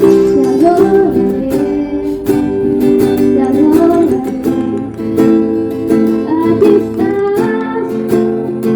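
Music: an acoustic guitar strummed in a steady rhythm, with a melody line that rises and falls over it.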